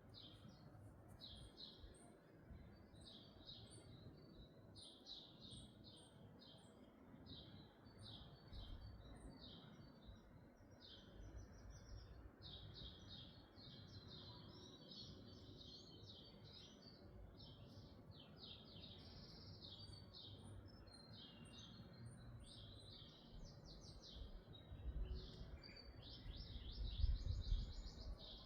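Small birds chirping in quick, short notes, a dense twittering that runs on without pause. A low rumble grows louder near the end.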